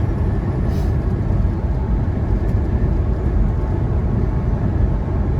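Semi truck driving at highway speed: a steady low rumble of engine and road noise inside the cab, with a brief hiss less than a second in.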